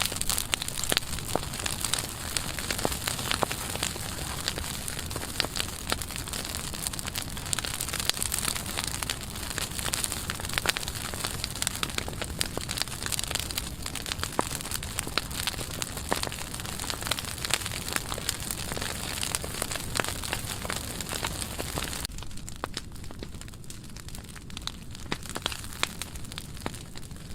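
Burning pile of dry pruning wood crackling, with many sharp pops over a steady low rush of flame. Near the end the crackling thins out and the hiss falls away.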